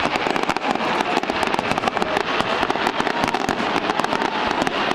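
Fireworks crackling: a dense, rapid run of many small sharp pops with no pause.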